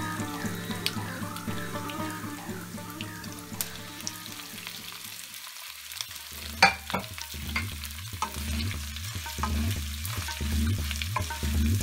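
Oil sizzling in a nonstick kadai while mustard and cumin seeds, curry leaves and cashews, and then cubes of cooked potato, are stirred with a wooden spatula, with a few sharp knocks of the spatula on the pan; the loudest knock comes a little past halfway. Background music with a repeating bass pattern plays under it, changing about halfway through.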